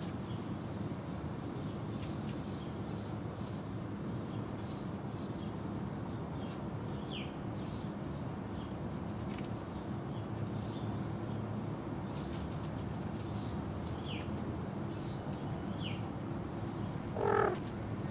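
Small birds chirping: many short high chirps, with a few calls that slide downward in pitch, over a steady low rumble. Near the end there is one louder, short, pitched animal call.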